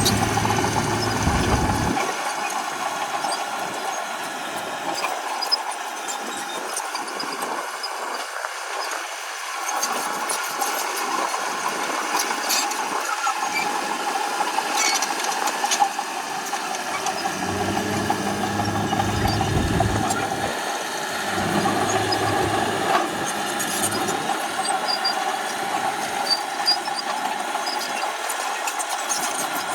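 Komatsu D31P bulldozer working: its diesel engine runs under a steady high whine, with scattered metallic clanks. The deep engine note swells under load during the first two seconds and again about two-thirds of the way through.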